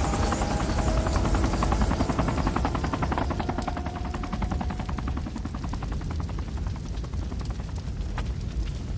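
Helicopter sound effect: fast, even rotor chopping over a deep engine rumble, slowly easing off over the last few seconds.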